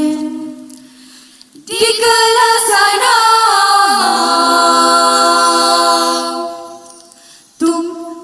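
Nasyid vocal group singing a cappella in close harmony. A held chord fades away, then a new chord swells in about two seconds in; its lower voices slide down partway through before it dies away. The voices come in again near the end.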